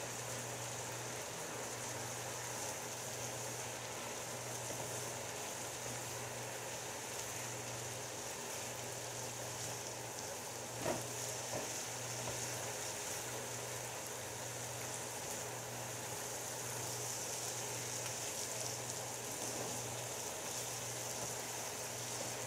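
Chicken, peppers and onions frying in a large pan, sizzling steadily as they are stirred with a silicone spatula, with one short knock about eleven seconds in.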